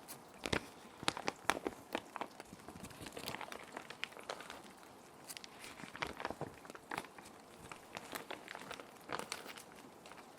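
Plastic sheet protectors crinkling and rustling in a run of irregular crisp crackles as paper sheets are slid in and handled, over a steady soft hiss of rain.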